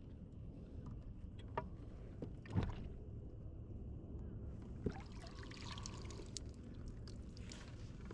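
Faint water sloshing around a kayak, with a few light knocks of gear against the hull.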